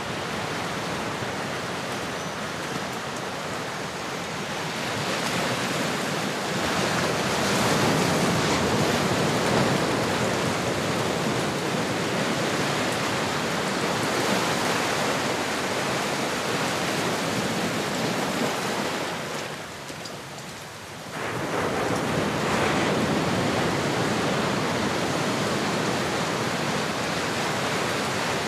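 Ocean surf: a continuous wash of breaking waves. It swells a few seconds in, dips for about a second and a half about two-thirds of the way through, then surges back.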